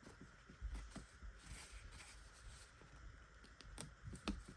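Faint clicks and light rustling as excess sewing thread is cut on the mini sewing machine's built-in thread cutter.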